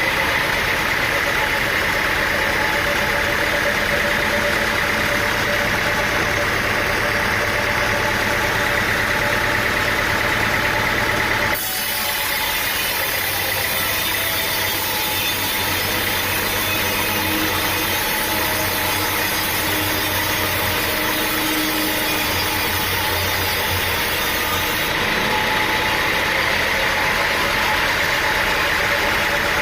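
Steady running of sawmill machinery, an engine hum under a constant mechanical noise. The sound changes abruptly about twelve seconds in and then carries on steadily.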